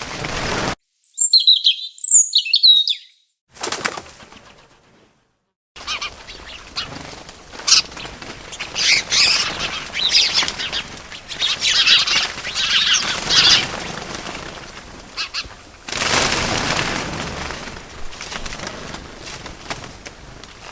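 Bird sounds: a few sharp high chirps about a second in, then a stretch of chirping over rustling noise. Short rushing bursts of wing flapping come at the start, around 3.5 s and loudest about 16 s in.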